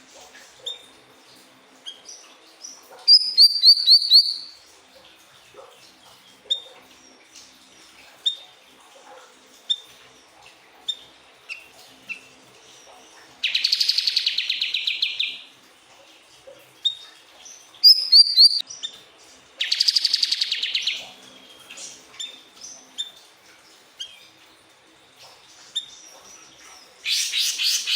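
Siri-siri bird singing: short high chirps about once a second, broken by several louder, rapid trilled phrases.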